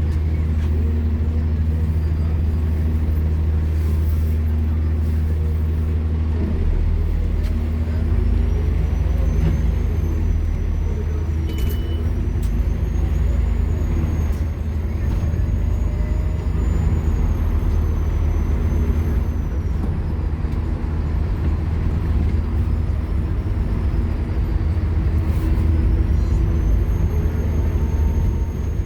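Scania K230UB Omnilink bus's engine running hard under way, a steady low drone with high whines that rise and fall with speed. A brief sharp sound comes about twelve seconds in.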